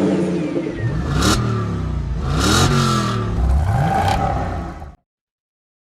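Car engine revving up three times, each rev peaking with a brief rushing whoosh; the sound cuts off suddenly about five seconds in.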